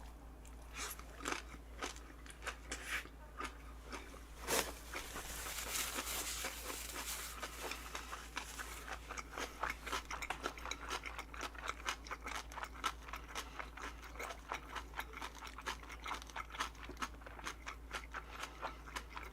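Close-miked chewing of a large mouthful of vegetable-leaf ssam wrapped around boiled pork, mushroom and garlic, with crisp crunching of the raw vegetables. The chewing comes as a fast run of clicks and crunches, denser in the second half.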